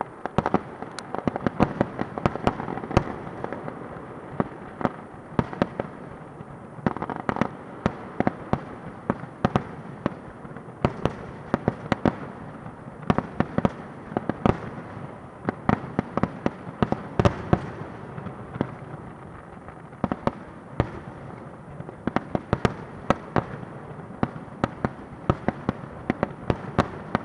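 Fireworks going off: a rapid, irregular string of sharp bangs, several a second, over a continuous background of crackle and rumble.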